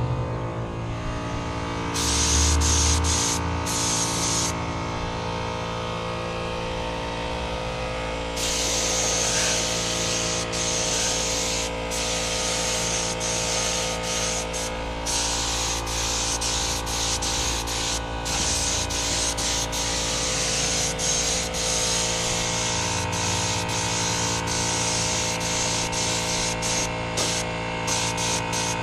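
Air spray gun hissing as it sprays clear coat: a short burst about two seconds in, then nearly continuous spraying from about eight seconds on, broken by many brief pauses. A steady hum runs underneath.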